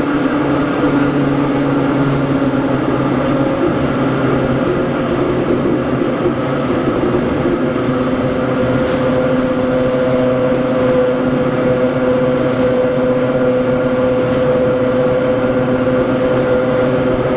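Hakone Tozan Railway Moha 1 electric car No.106 running, its nose-suspended SE121-A traction motors and gears giving a steady whine over the rumble of wheels on rail. The whine shifts a little in pitch about a third of the way in and then holds steady.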